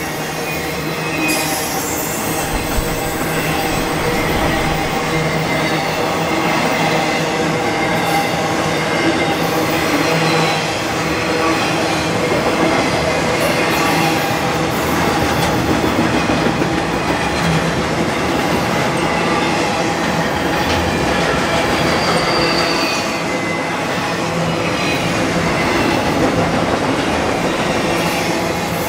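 BNSF intermodal freight train rolling past without let-up, a steady clatter of wheels on rail with some clickety-clack over the joints. Now and then a thin, high wheel squeal rises above it.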